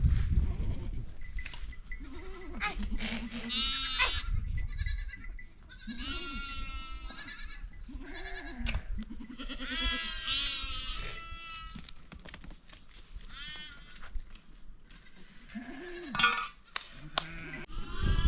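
A flock of goats bleating: many quavering calls at high and low pitches, often overlapping. A sharp knock sounds near the end.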